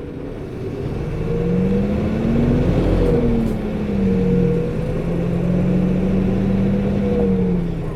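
Interior running sound of a 2008 Nissan Diesel Space Runner RA city bus accelerating, its coupling-type radiator fan whirring the whole time. The engine pitch rises for about three seconds, drops sharply as it shifts up, holds steady, then falls near the end as it eases off.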